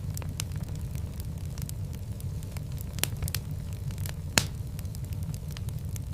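Fire in a fireplace crackling: a steady low rumble of flames with scattered sharp pops, the loudest about four seconds in.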